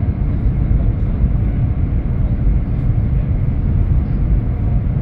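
Steady low rumble of a Fuxing high-speed train running at speed, heard from inside the passenger cabin.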